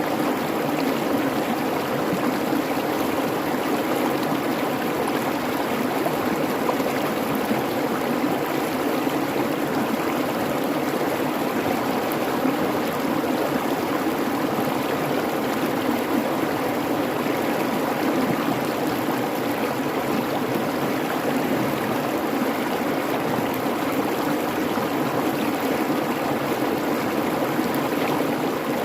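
Babbling creek flowing steadily: a continuous, even rush of water.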